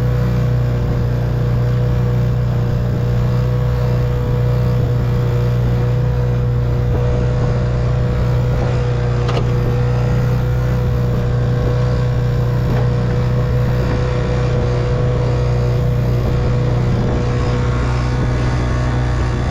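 1958 Evinrude 3 hp two-stroke outboard motor running at a steady speed, with no change in pitch or level.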